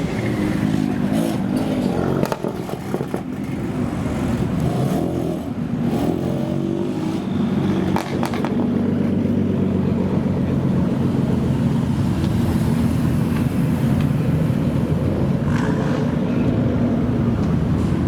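Modified car engine, its pitch wavering up and down through short revs over the first several seconds, then running steadily at a low, even speed.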